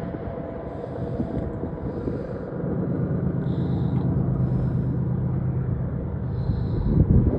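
Low engine rumble of a vehicle, a steady hum that grows stronger about two and a half seconds in, with wind noise on the microphone.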